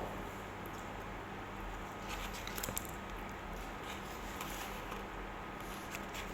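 A few faint clicks and soft rustles of people eating a takeaway meal, over a steady low hum.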